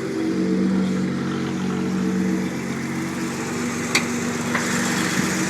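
Datsun 280Z's 2.8-litre straight-six engine idling steadily through a straight-pipe exhaust, with one sharp click about four seconds in.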